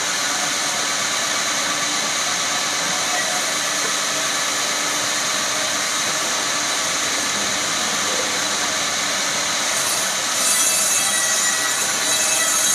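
Woodworking machine running steadily, with a louder high-pitched hiss coming in about ten seconds in.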